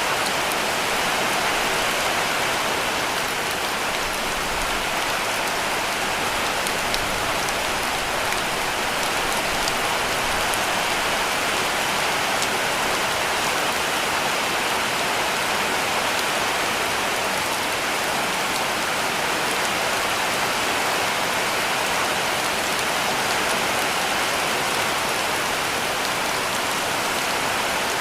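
Heavy rain falling steadily on a cabin roof, a dense even hiss with faint scattered drop ticks.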